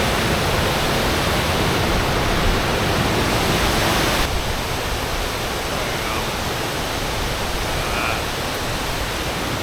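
Large waterfall crashing down a rock face, a loud, even rush of water; it steps down a little about four seconds in.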